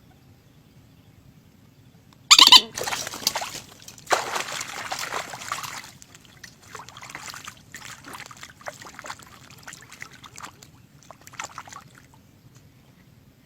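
Water splashing and sloshing in irregular bursts. It starts suddenly with a loud splash about two seconds in, is busiest for the next few seconds, then thins to scattered small splashes that stop near the end.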